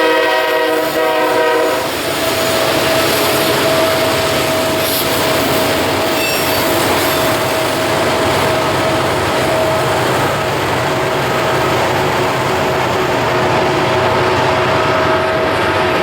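A freight locomotive's air horn sounds a chord that cuts off about two seconds in, over the rumble of a train rolling past. Then the train's wheels keep up a steady high squeal as they grind through the tight curve.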